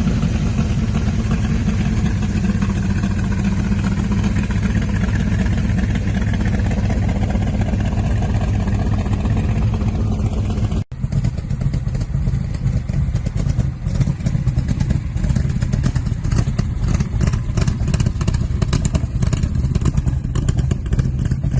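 Shelby Cobra 427's big-block V8 running loudly, in two stretches split by a sudden cut about halfway through. The second stretch has a more uneven, pulsing exhaust note.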